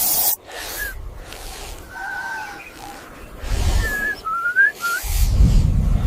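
Short whistled bird calls, single notes and little rising and falling glides, over hissing noise, with bursts of low rumble about three and a half seconds in and again from about five seconds on.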